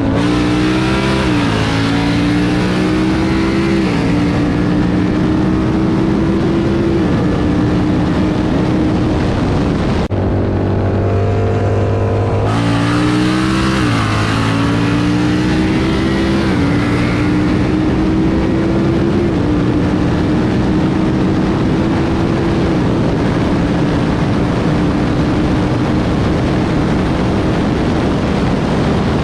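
Car engine accelerating hard through the gears: the engine note climbs steadily in each gear and drops back at each upshift. A second full-throttle pull starts about twelve seconds in.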